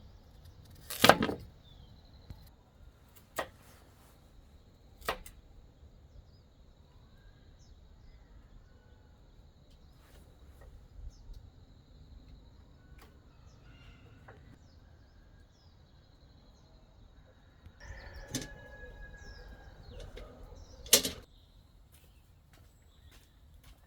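A few sharp knocks or strikes, several seconds apart, the loudest near the end. Faint bird chirps and a steady high thin tone run underneath.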